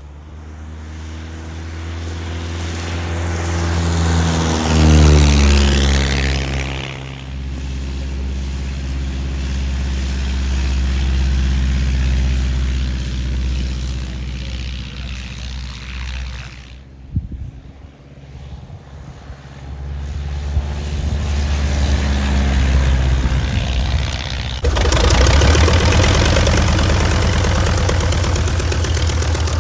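Vintage light aircraft's piston engine and propeller, swelling as the plane approaches and dropping in pitch as it passes about five seconds in. The engine sound stays steady, dips briefly past the middle, then builds again with an abrupt change near the end.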